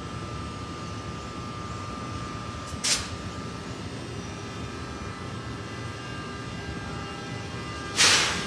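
ALP-46A electric locomotive with its train pulling out, a steady running hum under a thin constant whine. Two short, loud bursts of hiss cut in, one about three seconds in and a longer one near the end.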